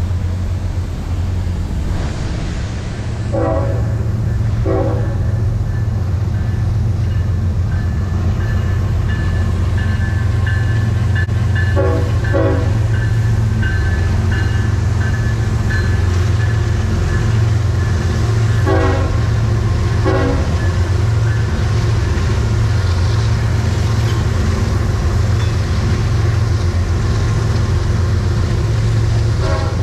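Freight train horn sounding short blasts in three pairs, over a steady low engine drone.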